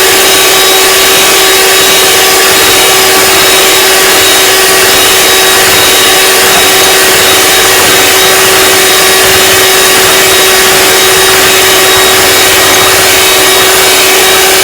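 Electric kitchen mixer running steadily with a constant hum, beating macaron meringue that has not yet stiffened.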